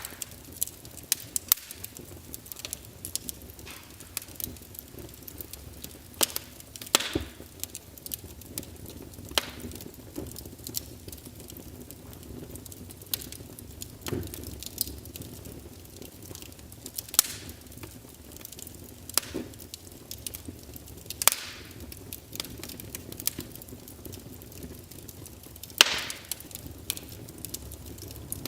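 Wood fire crackling in a fireplace: irregular snaps and pops over a low steady hiss, with a handful of louder pops spread through.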